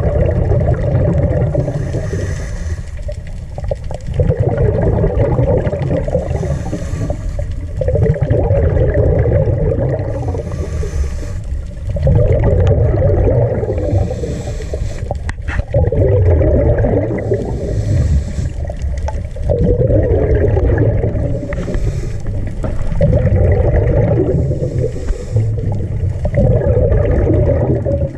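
Underwater sound of a diver breathing, with a burst of bubbling from each exhale about every four seconds over a steady low rumble.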